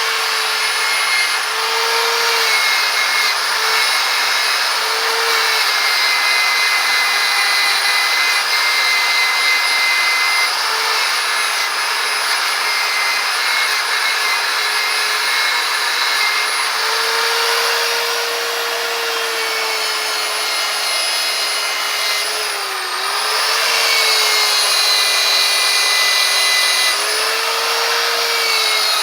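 Electric power tool spinning a buffing wheel against metal, running continuously with a whine that wavers in pitch and sags briefly about 23 seconds in.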